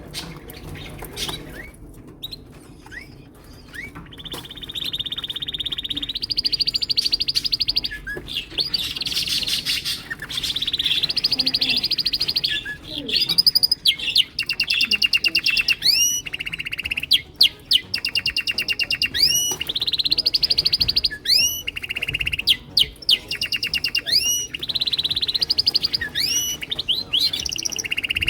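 Several male canaries singing in chorus: quiet at first with a few short calls, then from about four seconds in a near-continuous song of long, fast, high trills, joined in the second half by repeated sweeping notes that rise in pitch.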